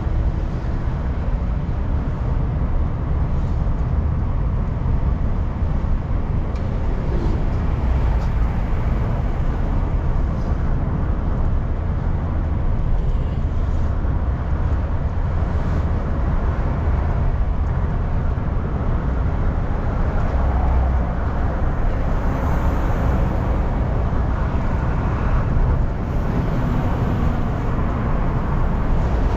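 Steady in-car driving noise: engine hum with tyre and road rumble heard from inside the cabin.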